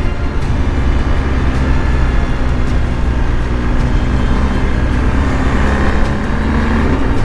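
BMW R 1250 GS Adventure's boxer-twin engine running steadily under way, under a constant rush of road and wind noise, its note rising slightly about five seconds in.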